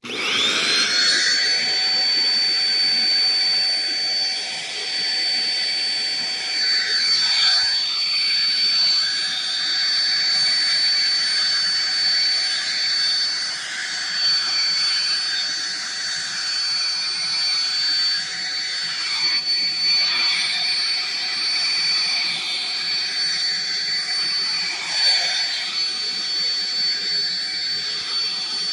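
Black & Decker 3-in-1 stick vacuum switched on, its motor whine rising to speed within about a second. It then runs steadily with a high whine over the rush of air.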